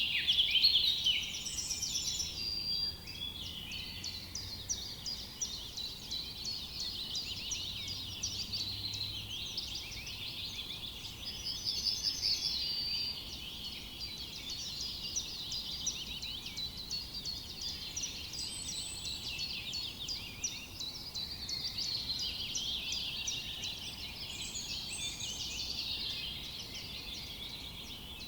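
Dense chorus of small songbirds chirping and twittering, many overlapping calls at once, with a few short fast trills standing out now and then.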